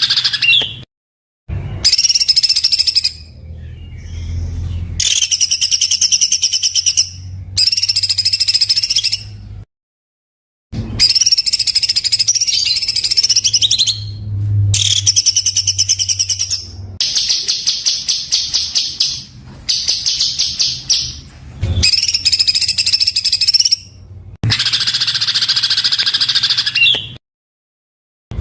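Songbird singing in bursts of fast, tightly packed, rough-toned notes, the rapid-fire 'tembakan kasar' song used as tutor recording for caged birds. The bursts last a few seconds each, with brief pauses and a few abrupt dead-silent breaks where recordings are joined.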